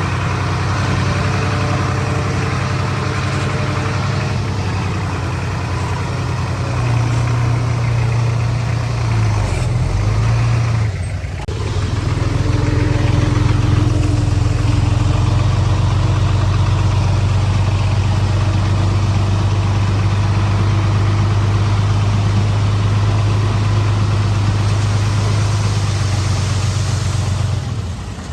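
Heavy diesel engine of earthmoving machinery running steadily. It eases off briefly about eleven seconds in, then picks up louder again, and drops away near the end.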